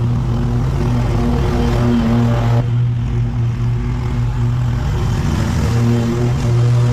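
A small petrol engine running steadily at constant speed: a low, even hum with overtones.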